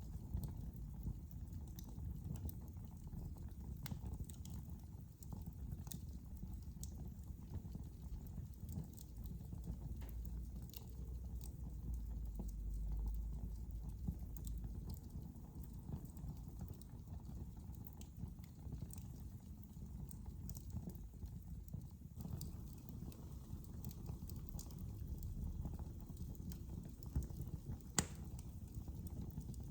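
Wood fire burning in a fireplace: a steady low rumble of flames with scattered irregular crackles and pops, and one sharper pop near the end.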